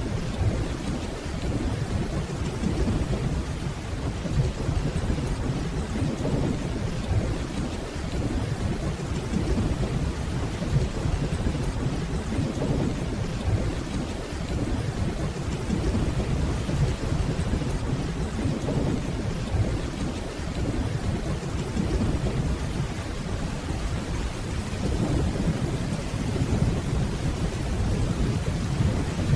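Steady rainfall with a low, rolling rumble of distant thunder underneath it, the rumble swelling and easing now and then.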